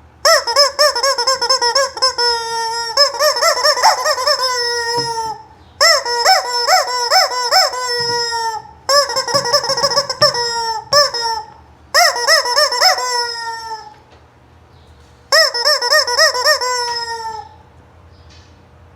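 A hen cackling in about five bouts, each a fast run of repeated calls ending in a longer falling note.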